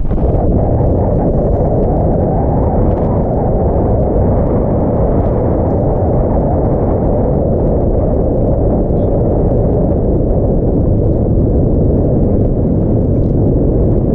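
Heavy wind buffeting the microphone: a loud, steady, low rumble with no letup.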